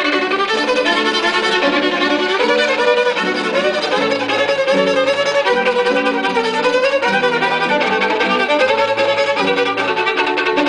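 Violin playing a hymn melody in quick, evenly repeated bow strokes, with a lower sustained note underneath.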